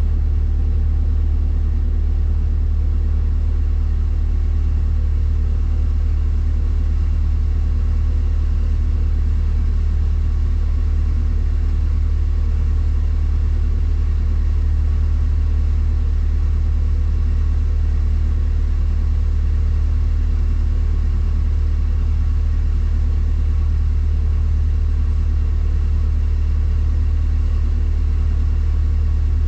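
Motor cruiser's inboard diesel engine running steadily, an unchanging deep drone.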